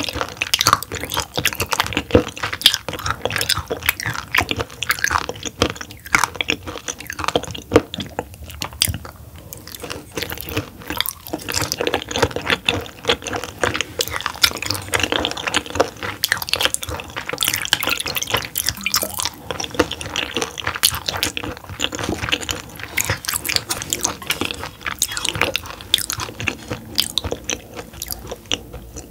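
Close-miked chewing of raw roughscale sole sashimi: a steady run of small wet clicks and crunches from the mouth, with no pause.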